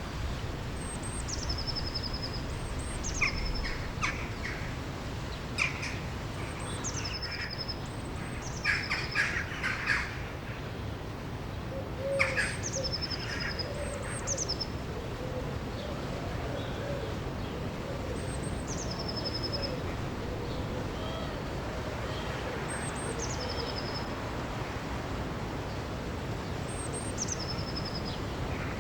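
Birds singing over the steady rush of a river or waterfall. One bird repeats a short whistled call, a high note dropping to a lower held note, every few seconds. Louder, harsher calls come in bunches during the first half.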